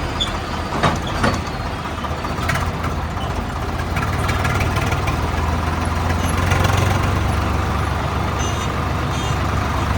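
Tractor's diesel engine running on the move, a steady low drone that swells slightly midway, with a few sharp clicks in the first three seconds.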